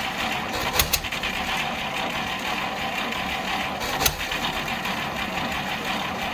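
GAZ-51B inline-six gasoline engine running steadily with a fast, even clatter, and a couple of sharp clicks a little under a second in and about four seconds in.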